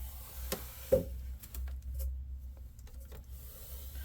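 Light knocks and rubbing from a laptop being handled during a screen swap, with the sharpest knock about a second in, over a low steady hum.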